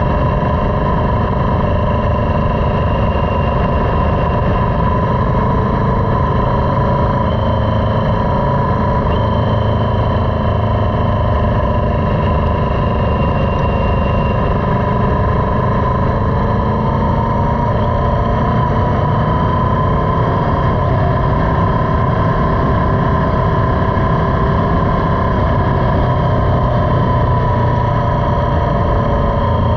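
Motorcycle engine running steadily while riding, its pitch drifting slowly up and down, under a heavy low rush of wind noise.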